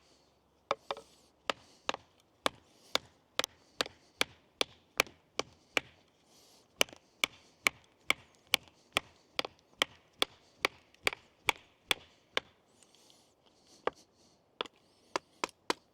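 A bushcraft knife being driven through a piece of wood to split kindling: a steady run of sharp wooden knocks, about two to three a second, with a short pause about two-thirds of the way through.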